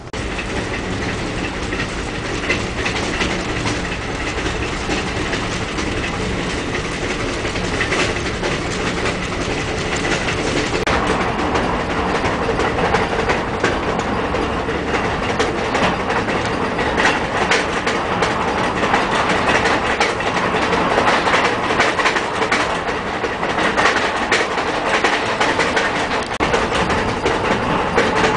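Train running at speed, heard from aboard: a steady rumble of wheels on the rails with irregular clicks, growing louder about eleven seconds in.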